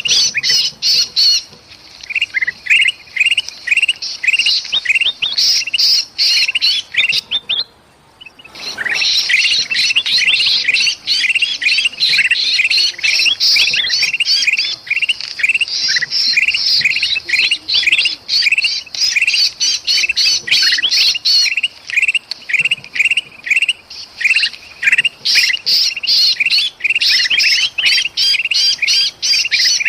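Bulbuls giving a dense, rapid run of sharp, agitated chirps and squawks: the alarm and distress calling of a trapped bulbul with excited bulbuls joining in. The calling drops out briefly about eight seconds in, then starts again abruptly.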